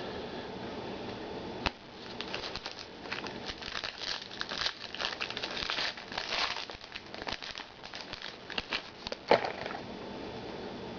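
Crinkling and rustling as a trading card pack and its cards are handled. There is a sharp click about a second and a half in and a louder snap near the end.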